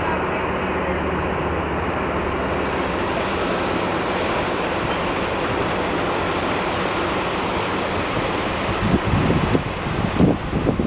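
Steady outdoor rumble of vehicle traffic with a low hum. Wind buffets the microphone in gusts over the last two seconds.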